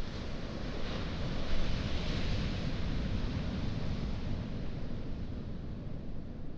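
Sea wave surging up a pebble shore, swelling about two seconds in and then drawing back, over a low wind rumble on the microphone.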